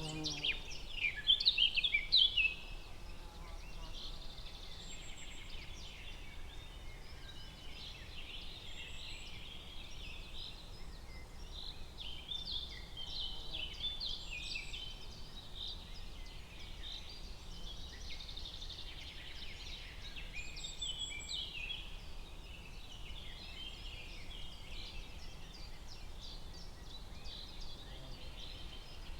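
Forest ambience of many small birds chirping and calling over one another in a dense chatter, loudest about one to two seconds in, with a few brief high thin whistles scattered through.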